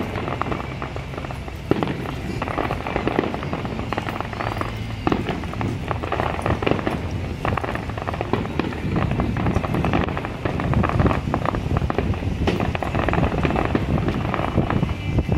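Fireworks display: a dense, continuous run of crackling and bangs from aerial shells, with sharper reports about 2 s, 5 s and 12 s in.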